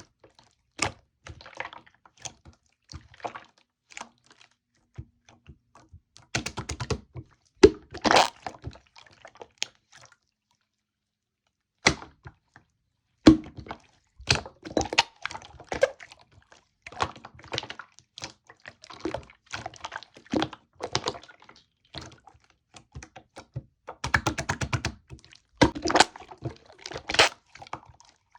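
Clear blue slime being squished and pressed by hand, giving wet, sticky clicks and small air-bubble pops, with two runs of quick popping and a short pause in the middle.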